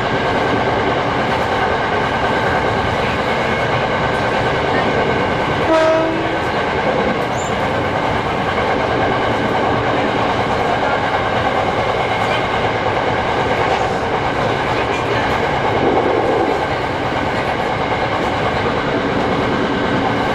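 Hankyu 6300 series electric train running at speed, heard from inside: steady running noise with wheel clatter and motor hum. A short horn blast comes about six seconds in.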